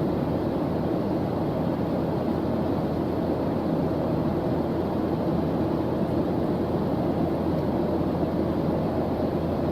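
Steady background noise track for study focus, dark and low-pitched with little treble, unchanging throughout.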